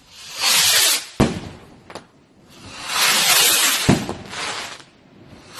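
Fireworks going off: loud hissing whooshes, three in all, with two sharp bangs cutting through, about one second in and again near four seconds.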